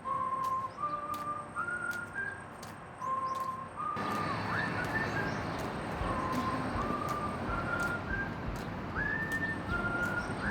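A whistled tune: short phrases of held notes, each sliding up into place and climbing step by step, repeated several times.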